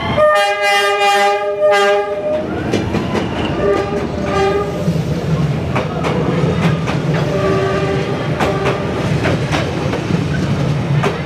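Train on Hanoi's Train Street sounding its horn in a long blast, then shorter toots, as it rolls past close by with a steady low rumble and the clatter of wheels on the rails.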